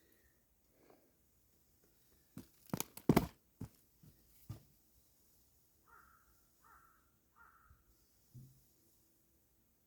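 A run of sharp knocks, loudest about three seconds in. Then a crow caws three times in quick succession, and a single low thump follows near the end.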